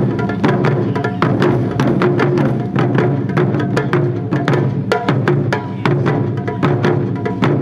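Japanese wadaiko (taiko drum) ensemble playing, a dense, fast run of drum strikes with sharp clicking hits mixed in.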